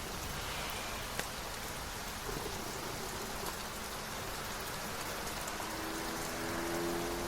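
Steady rain falling, an even hiss of drops. There is a single faint click about a second in and a faint low hum near the end.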